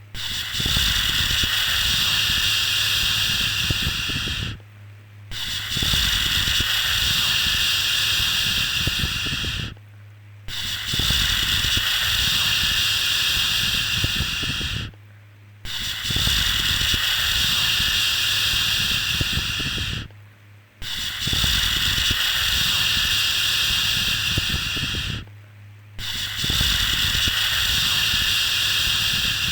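A soothing 'shhh' shushing sound for calming a baby, repeated steadily. Each long hiss lasts about four and a half seconds, with a brief pause before the next, so one comes roughly every five seconds. A faint low hum runs underneath.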